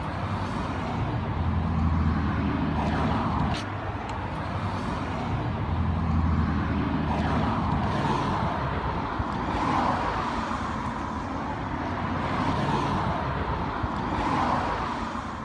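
Motor vehicle noise: engines humming and swelling in and out over a steady rumble, as of road traffic going by.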